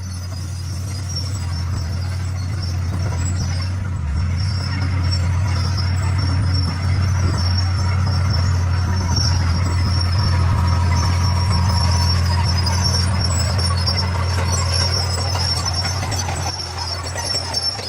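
Diesel engine of a D41 crawler bulldozer running and working, with a steady high hiss above the low drone. It grows louder over the first several seconds, holds, and eases off near the end.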